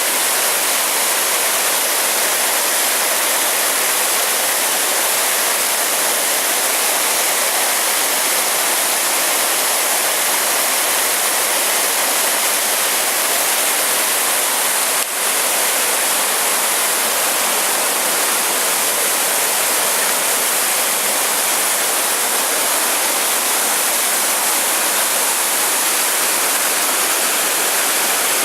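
Waterfall pouring with great force: a loud, steady rush of falling water.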